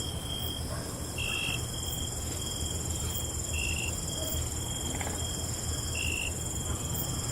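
Night chorus of crickets trilling steadily at several pitches, with short chirps repeating every second or two, over a low steady rumble.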